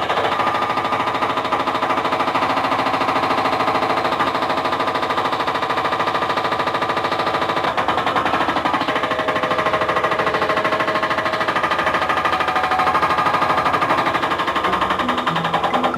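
Impact ripper drawn by a bulldozer, hammering rapidly and steadily as it breaks up rock.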